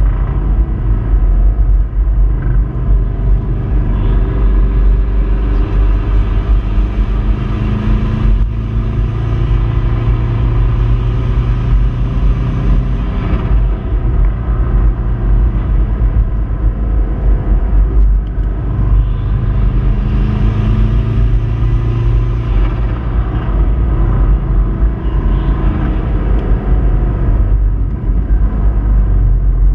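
Subaru Impreza 2.5RS flat-four engine running hard on a lap, the note dropping and picking up again a few times. It carries the knock of a failing connecting-rod bearing.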